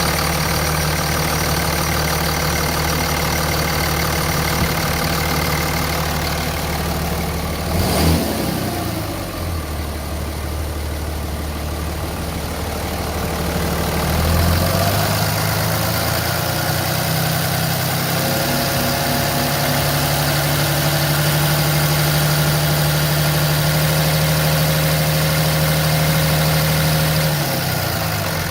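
2006 Dodge Ram 2500's 5.9-litre Cummins inline-six turbo diesel idling. It is revved briefly about eight seconds in, then held at a raised, steady speed from about halfway through until it drops back to idle near the end.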